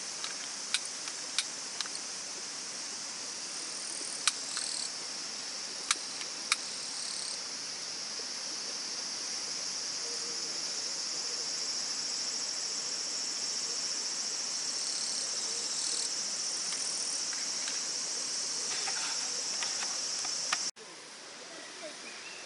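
A steady, high-pitched chorus of crickets or other singing insects, with a few sharp clicks in the first several seconds. The insect sound cuts off abruptly near the end, leaving a quieter, even hiss.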